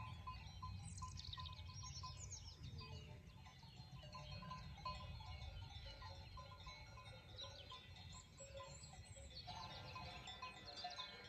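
Faint birds chirping in quick falling bursts over a low steady rumble.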